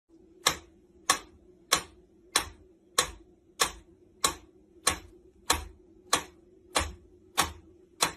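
Regular ticking: sharp, evenly spaced clicks, about three every two seconds, over a faint steady hum.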